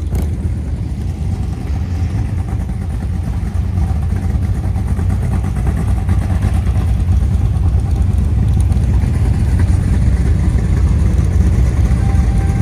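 A car engine rumbling deep and steady, slowly growing louder as the car rolls out of the show.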